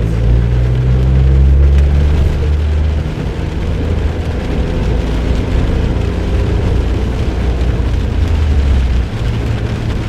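Suzuki Jimny JB23W's small three-cylinder turbo engine, fitted with an aftermarket muffler, running under way with steady tyre and road noise, the engine note easing slightly a few seconds in and again near the end.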